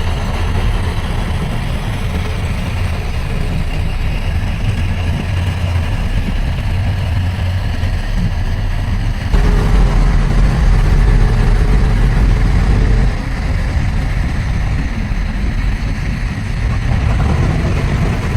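Heavy diesel engine of earthmoving machinery running steadily, louder for a few seconds about halfway through.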